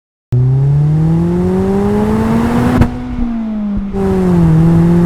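Mazda MX-5's four-cylinder engine and exhaust accelerating hard, the note rising steadily, then dropping briefly with a click and a dip in level near the middle, as in an upshift, before pulling again with a slowly rising note.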